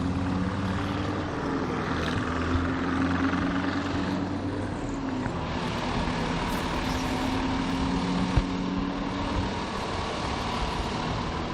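Large diesel rally truck engines idling steadily at the start line, with a short knock about eight seconds in.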